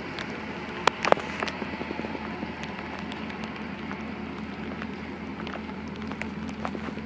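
Steady hum of a ferry's machinery, with scattered clicks and knocks over it; two sharper knocks come about a second in.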